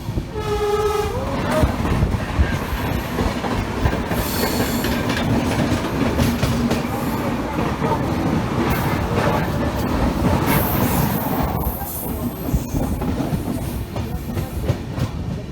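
Indian passenger train running along the track: a steady rumble with the clatter of wheels over rail joints. It opens with a short horn note of about a second that slides up at its end.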